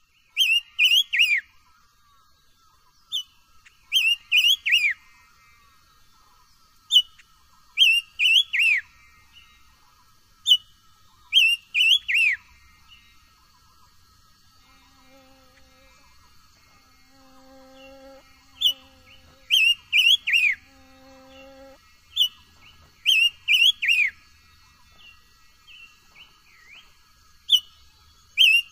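A songbird sold in the Vietnamese bird trade as 'chim ngũ sắc' sings a short phrase over and over, about every three to four seconds. Each phrase is a high note followed by a quick run of three or four falling whistles. A faint steady high buzz runs underneath.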